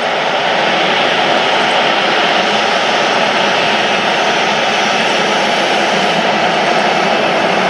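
Fixed-wing aircraft engines running loud and steady as an airplane passes on the runway, a constant rushing roar with a faint steady whine in it.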